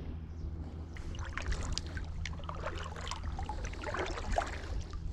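Kayak paddle dipping into the water, with small splashes and dripping.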